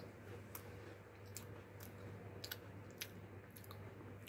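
A few faint, irregular soft clicks and crunches of someone chewing an Oreo cookie, over a low steady hum.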